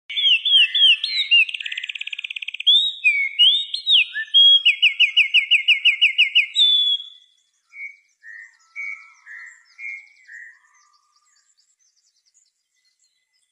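A songbird singing close up: loud, varied slurred whistles and a fast trill, then a run of about a dozen quick repeated notes. From about eight seconds in the notes are softer and sparser, stopping near eleven seconds.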